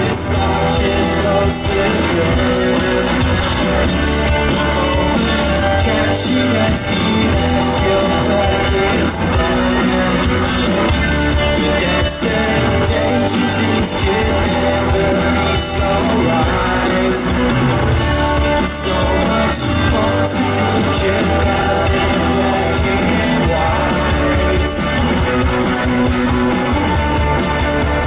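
Live rock band playing at full volume: guitars, bass and drum kit in a dense, continuous wash.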